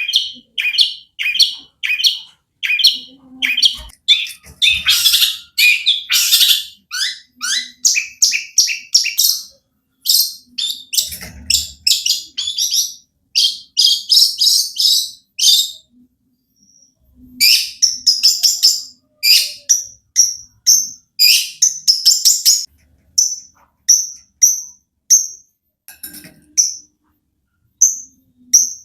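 Long-tailed shrike (cendet) singing a loud, fast run of short, harsh notes, its song filled with mimicked calls of other birds. After a short pause about halfway, the notes come more spaced and higher.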